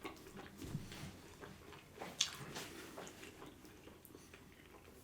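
Faint chewing and biting on barbecued beef rib meat: soft wet mouth clicks and smacks scattered irregularly.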